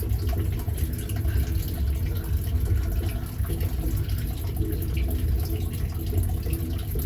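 Turtle tank filter running, its water siphoning through and trickling steadily into the tank, over a steady low rumble.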